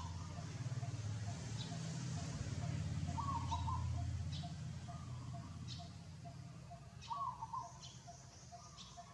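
A bird calling, a short warbling note repeated about every four seconds, over a low steady rumble that fades about halfway through, with faint rapid ticking in the background.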